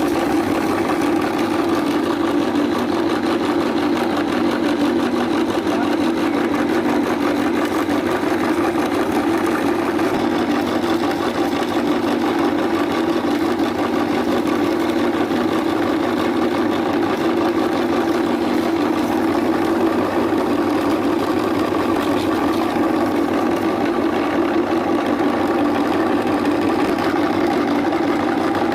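Electric meat grinder's motor running steadily with a constant hum. It cuts off just at the end.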